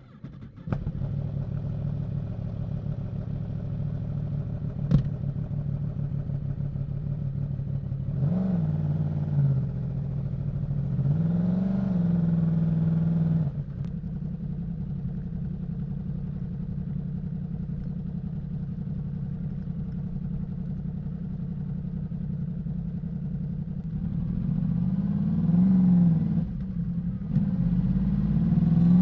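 Yamaha YZF-R1's crossplane inline-four engine with an Akrapovic exhaust idling steadily. There is a short throttle blip about eight seconds in, a longer rev held for a couple of seconds soon after, another blip near the end, and a single sharp click about five seconds in.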